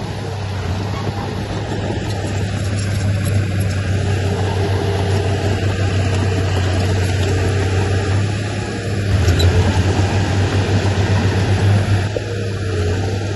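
Heavy diesel earthmoving machinery running steadily with a low hum. From about nine seconds in it gets louder for around three seconds, with a quick throb.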